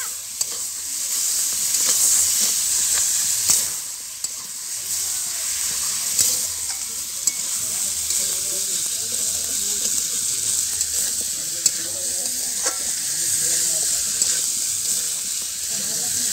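Pork and potato curry sizzling steadily in a large metal kadai while it is stirred with a metal spatula, with scattered sharp clicks and scrapes of the spatula against the pan.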